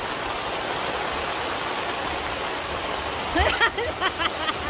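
Heavy rain pouring down in a steady hiss. Near the end it is joined by a quick run of short, rising-and-falling calls.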